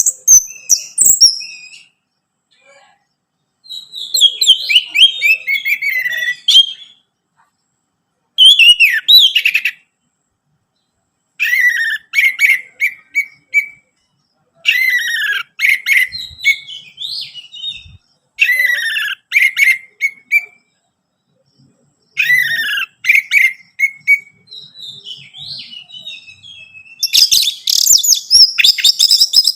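Orange-headed thrush singing in repeated phrases of about two seconds, a few seconds apart, many notes sliding downward in pitch. Near the end the song runs on into a longer, denser and louder stretch.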